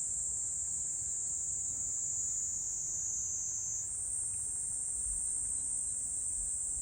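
Insects singing in a continuous high-pitched drone, which steps slightly higher about four seconds in.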